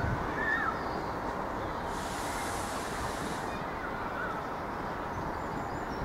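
Steady rumble of an 8520 class DART electric multiple unit pulling out and receding along the track, blended with urban background noise. A brief hiss rises about two seconds in and stops a second and a half later.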